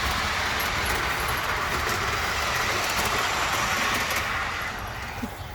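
Outdoor model train running along its track: a steady rolling, rattling sound with faint clicks. It fades near the end as the train moves away.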